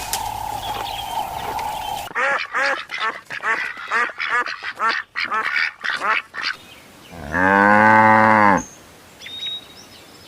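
Ducks quacking in a rapid run of short calls, several a second, for about four seconds. Near the end comes a single long, low animal call lasting about a second and a half.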